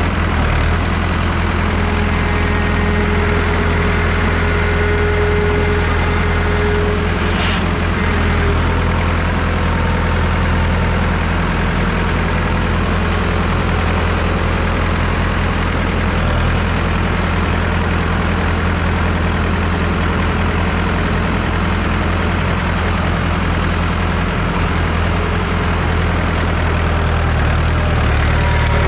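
Massey Ferguson 3165 backhoe tractor's diesel engine running steadily. A faint steady whine sounds for a few seconds near the start, and a single sharp click comes about seven seconds in.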